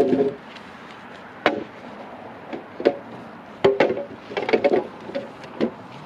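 Bamboo being chopped: about six irregularly spaced hollow knocks, some with a short ringing tone.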